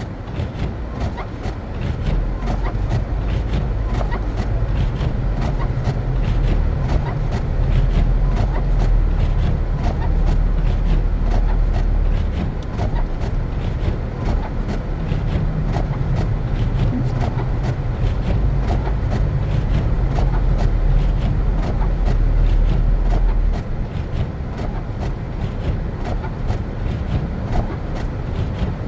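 Car driving on snow-covered streets: a steady low rumble of road and tyres, with many small ticks and crackles over it. The rumble grows louder a couple of seconds in and drops back about five seconds before the end.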